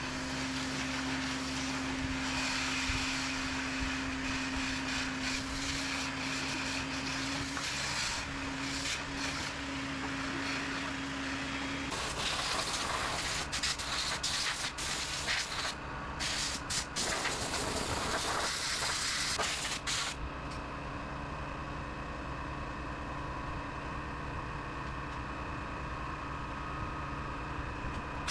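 Power tools stripping dirt, rust and chipping paint off an old welder's transformer: steady machine noise with a strong hiss, holding a steady hum for about the first twelve seconds, then changing abruptly several times to other steady tool noise.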